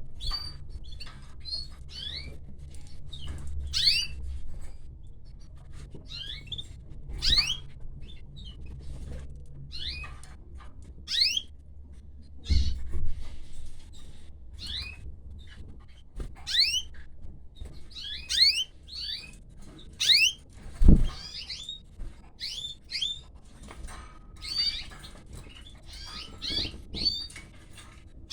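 Canaries chirping: short, high calls, many sliding down in pitch, coming irregularly throughout. Two dull thumps come, one near the middle and one about three quarters of the way in.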